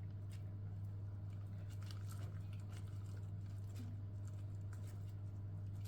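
Faint clicks and soft rustles of raw chicken pieces being handled and set into a baking dish, over a steady low electrical hum.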